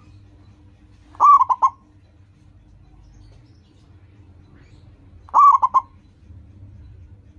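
Zebra dove (perkutut) singing: two cooing phrases about four seconds apart, each a longer note followed by a few quick short notes.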